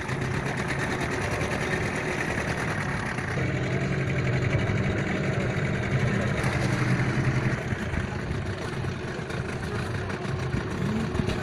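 Small passenger boat's engine running steadily under way, a continuous low drone with a fast even beat, mixed with wash and wind noise.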